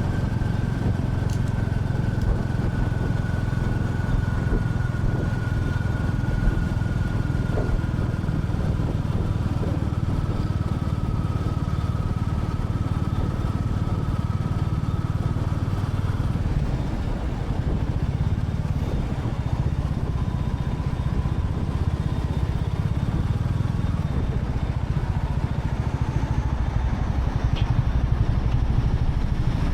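Royal Enfield Classic 350's single-cylinder engine running steadily under way, a low exhaust note with road noise, easing off briefly a little past halfway.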